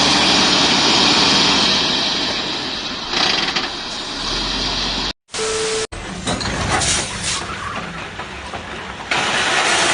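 Heavy truck loaded with about 40 tonnes, engine running under strain as it tries to pull away, with a steady rushing noise. It cuts off abruptly about five seconds in, followed by a brief steady hum and then more vehicle noise.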